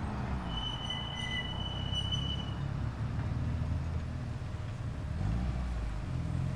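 Car engine running at low revs with slow rises and falls in pitch, swelling a little near the end. A thin, steady high whistle sounds over it for about two seconds near the start.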